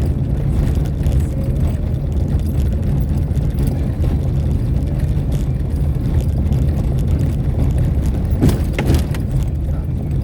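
Steady low rumble of a vehicle on the move, engine and road noise heard from on board, with two short knocks about eight and a half seconds in.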